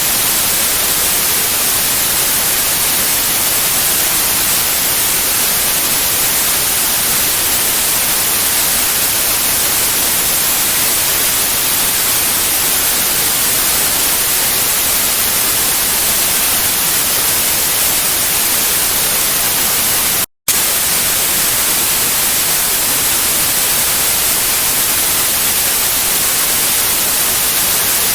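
Steady white-noise hiss for infant sleep, even and loud, with a split-second gap of silence about two-thirds of the way through.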